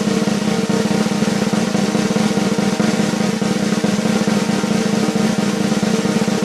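Snare drum roll sound effect: a fast, even roll held at a steady level, cutting off abruptly.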